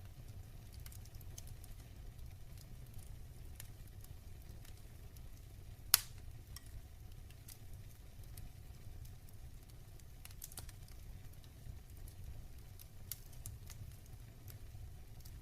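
Wood fire burning in a fireplace: a low steady rumble of the flames with scattered crackles and one loud pop about six seconds in.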